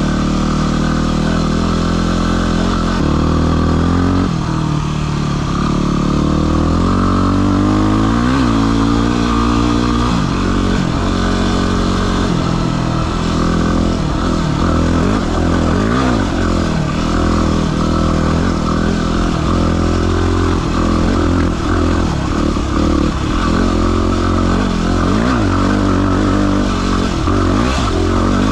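Yamaha WR250R's single-cylinder four-stroke engine being ridden, its pitch rising and falling over and over as the throttle opens and closes.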